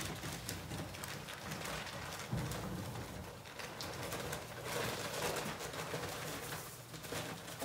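Dry self-leveling mortar poured from a paper bag into the Steele Mixer drum onto the water: a rustling, crackling hiss of powder and paper that grows fuller about three seconds in.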